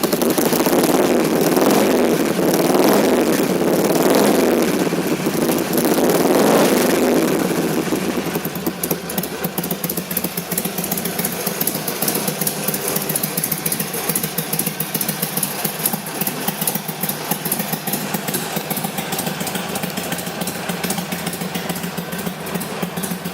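2006 Harley-Davidson Sportster XL883C's carbureted 883 cc V-twin running, louder than a stock exhaust, typical of a stock exhaust with the baffles removed. It is revved three times in the first several seconds, then settles to a steady idle.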